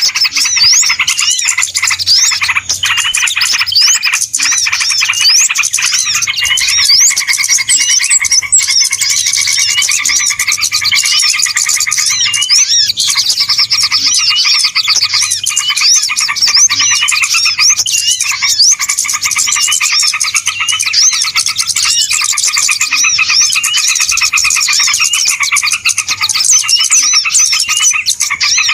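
Dense chorus of many small birds chirping and twittering at once, quick overlapping notes with no pause: a bird-lure recording of noisy small birds, played to draw wild birds in.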